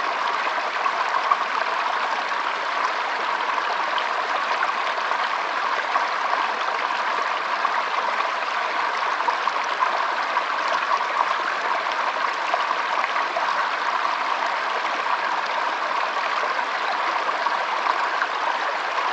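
A forest stream running steadily, an even flowing and trickling of water.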